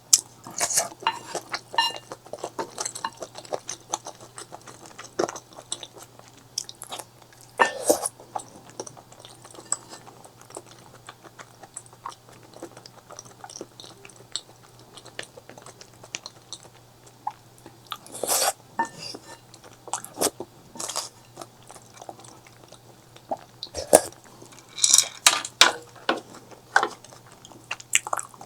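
Close-miked eating: steady chewing with wet, clicky mouth sounds, broken by louder bites and bursts of chewing about a third of the way in, around the middle and near the end.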